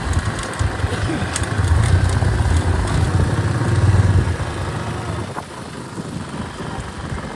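Motorbike engine running while riding, a low rumble that grows louder in the middle and then eases off about four and a half seconds in.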